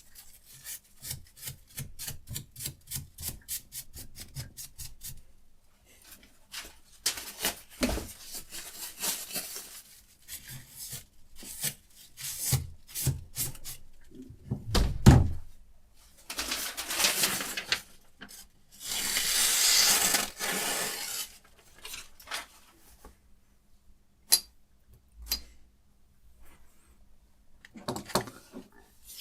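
Sharpening stone on a guided knife-sharpening rig scraping along a knife's edge: a run of quick short strokes, about four a second, then longer scraping passes, with a few sharp knocks in between.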